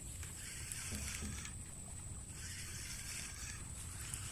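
Water sloshing in uneven patches about a second long, over a low rumble, with a steady thin high tone throughout.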